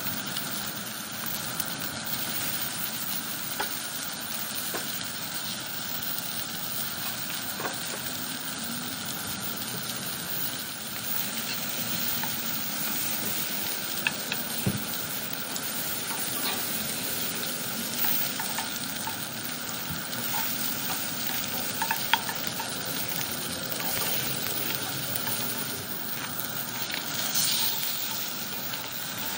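Trout and chopped vegetables sizzling in hot fat in a cast iron skillet, stirred with a wooden spoon. The spoon makes scattered clicks and scrapes against the pan.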